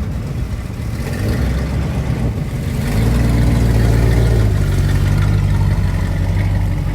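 Car engine running loud and close, revving up in steps about one and a half and three seconds in, then holding a steady note.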